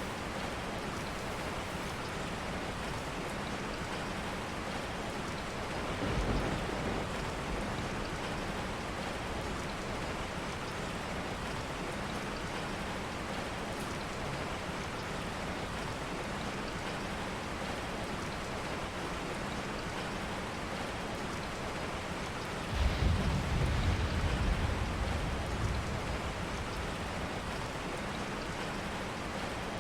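Steady rain, with two low rumbles of thunder: a short one about six seconds in and a longer, louder one about twenty-three seconds in that fades over a few seconds.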